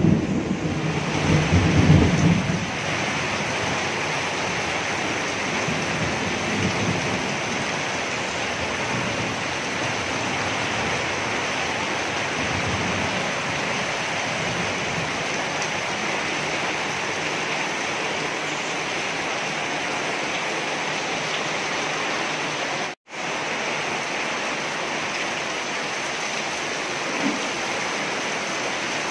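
Heavy tropical rain pouring steadily onto corrugated metal roofs and a concrete yard, with water gushing off a roof edge. A heavier low rumble runs through the first couple of seconds. The sound drops out for an instant about 23 seconds in.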